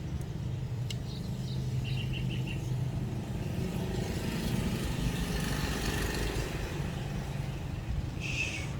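Steady low background rumble with a few faint short chirps and clicks, and a brighter chirp near the end.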